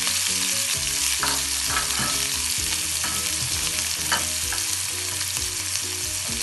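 Sliced red onions and mustard seeds sizzling in hot oil in a frying pan, a steady hiss, as a wooden spatula stirs them, with a few short scrapes of the spatula on the pan.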